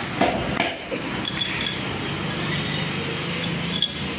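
Steel gears and parts of a dismantled truck gearbox clinking against each other as they are handled: a sharp metal knock near the start, then several light ringing clinks.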